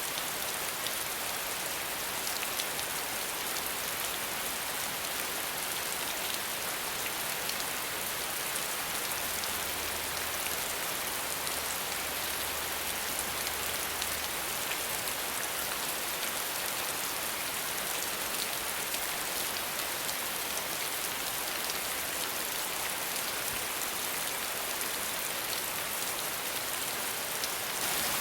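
Steady rain falling, a dense hiss with fine scattered drop ticks, without thunder.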